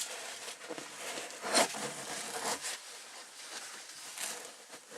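Irregular rustling and scraping from hands handling the car's interior trim, with a sharper scrape about a second and a half in.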